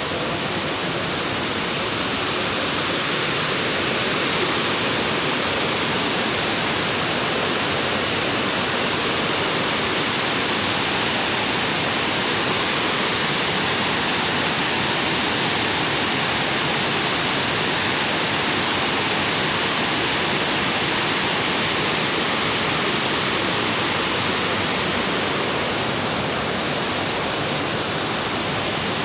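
Steady rush of a waterfall, a loud, even wash of falling water that grows a little louder through the middle and eases off near the end.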